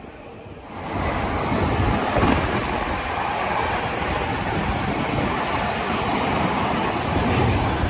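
A train passing close by on the track. Its loud rushing rail noise comes in sharply about a second in and holds steady.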